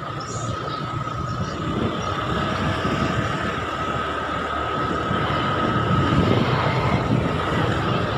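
Steady road and engine noise of a moving vehicle, heard from on board, growing slightly louder, with a thin steady whine running through it.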